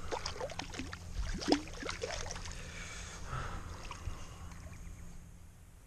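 Water splashing as a hooked rainbow trout thrashes at the surface while being landed. The splashes come thick in the first two seconds, with one sharp loud one about a second and a half in, then ease off and fade.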